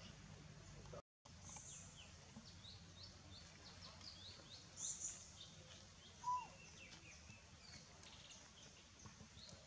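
Faint outdoor background of small birds chirping, many quick high chirps throughout over a low steady hum. The sound drops out for a moment about a second in, and there are two brief louder sounds near the middle.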